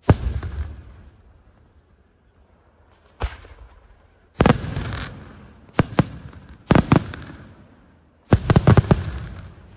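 Aerial firework shells bursting overhead: a series of sharp bangs, each followed by a fading rumble, with a quick cluster of several bangs near the end.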